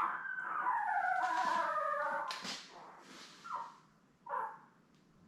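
A ten-day-old Labrador retriever puppy crying: a long wavering whine for the first couple of seconds, then a few short squeaks, with a brief rustle in the middle. The breeder takes the crying as hunger and brings the mother in to feed the puppy.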